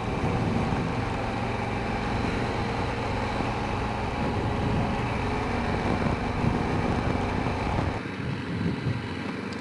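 Honda Rincon 650 ATV's single-cylinder engine running as the quad is ridden, its sound dropping away about eight seconds in as the throttle eases off.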